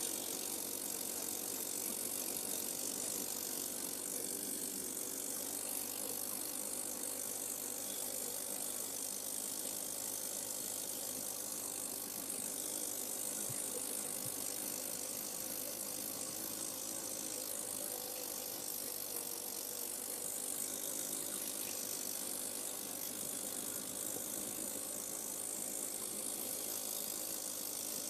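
Irbis Dingo T110 snow moped under way, its small engine running steadily under the clatter of the track and running gear, heard from the rider's seat.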